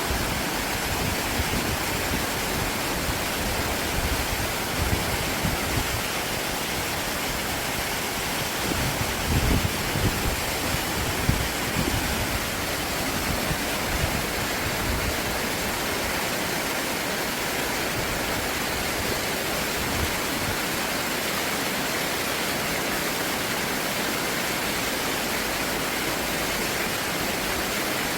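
Stream water rushing steadily over rocks, with a few low bumps near the middle.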